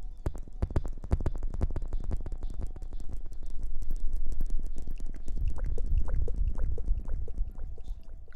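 Close-miked ASMR crackling and rustling: a dense, rapid run of tiny clicks over a low rumble.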